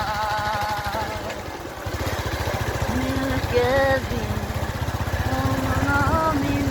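A voice singing long, wavering held notes over a motorcycle engine running with a fast, low putter; the engine grows louder about two seconds in.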